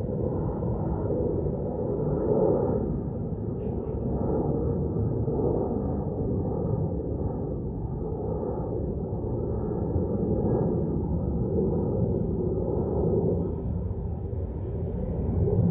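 Outdoor ambience: a low rumbling noise with no clear tone, swelling and easing every few seconds.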